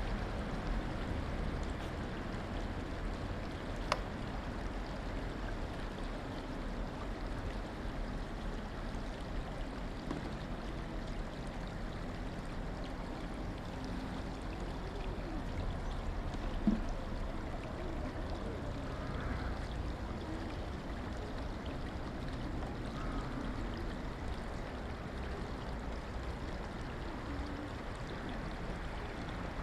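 River water flowing steadily, with a single sharp click about four seconds in and a brief knock a little past the middle.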